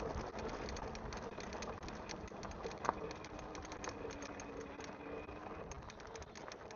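Bicycle being ridden along a rough woodland trail: tyres crunching over gravel and twigs, with frequent small clicks and rattles throughout.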